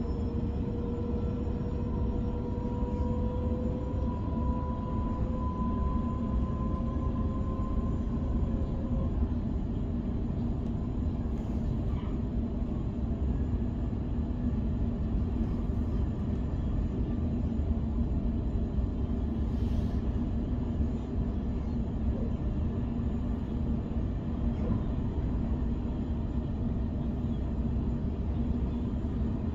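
Electric suburban train running at speed, heard from inside the carriage: a steady rumble of wheels on the track, with a motor whine that rises slowly in pitch over the first nine seconds and then fades.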